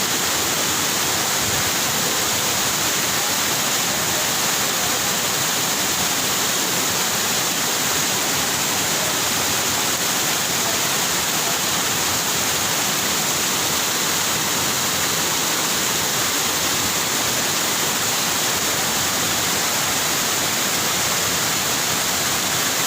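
Rushing water, a loud, steady, unbroken rush with no let-up.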